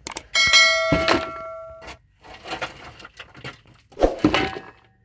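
A metal object struck hard, ringing with several clear tones for about a second and a half before dying away. Then scattered knocks and scrapes follow, with another heavy knock near the end.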